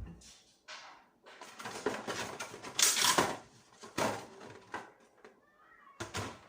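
Flour being sifted through a kitchen sieve: irregular rustling and scraping bursts, loudest about three seconds in.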